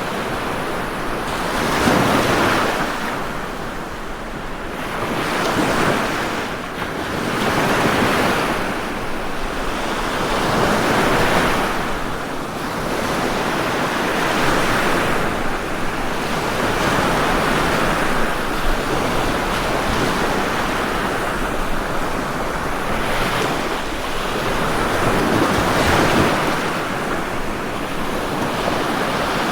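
Ocean waves breaking and washing on a shore, a continuous rush of surf that swells and recedes every few seconds.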